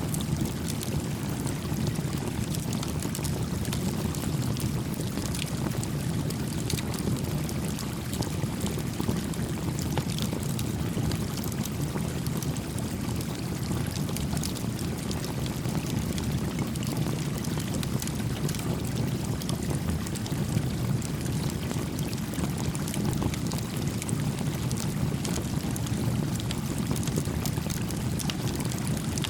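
Small campfire crackling, with frequent short pops, over the steady low rush of a flowing stream.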